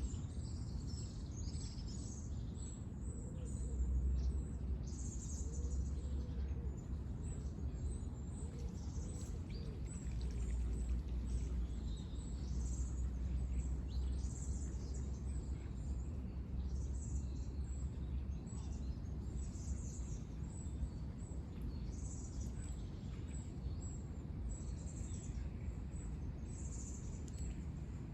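Small birds chirping and calling on and off in short high notes over a steady low rumble.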